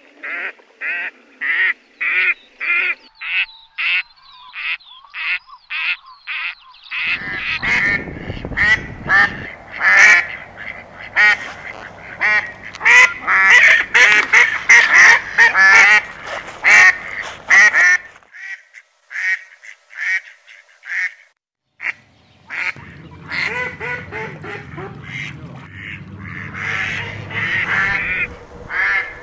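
Ducks quacking. At first a run of short, evenly spaced quacks, then several ducks quacking over one another. The quacking thins out for a few seconds and then comes in thick again near the end.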